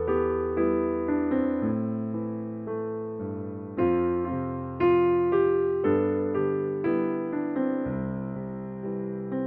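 Slow, soft piano music: sustained chords struck about once a second over low bass notes, each fading before the next.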